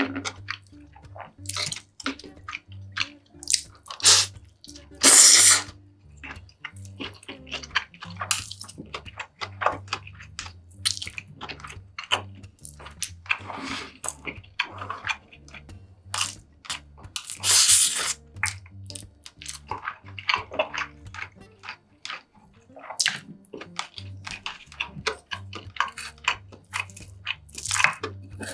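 Close-miked eating sounds: chewing, with frequent clicks of a spoon and chopsticks against bowls. Two longer, louder bursts about five and seventeen seconds in sound like slurps. Soft background music with a low bass line runs underneath.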